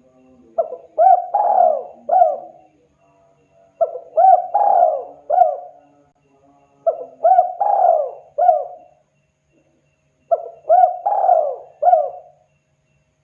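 Spotted dove (tekukur) cooing: four phrases of several short rising-and-falling coos each, about three seconds apart.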